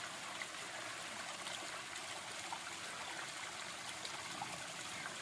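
Small hillside waterfall babbling steadily as rainwater runs down off the rocks after a first rain.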